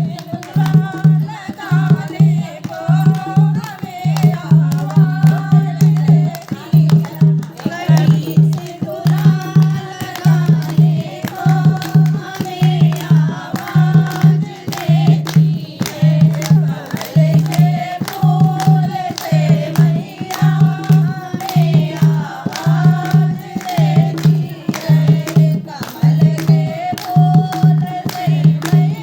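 Hindi devotional song to the Mother Goddess (a Mata bhajan): a sung melody over a steady, repeating hand-drum beat.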